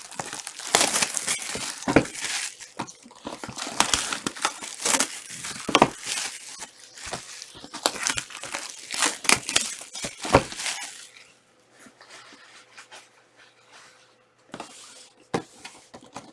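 Plastic wrapping on a box of trading cards crinkling and tearing as the box and its packs are torn open. It is busy for about the first eleven seconds, then drops to a few soft rustles.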